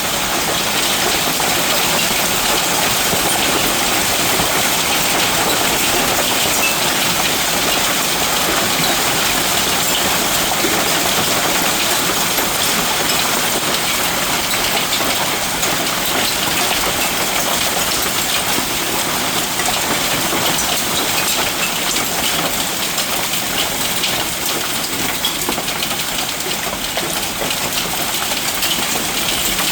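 Heavy storm downpour: dense, steady rain noise with a fine patter of countless drops, no let-up.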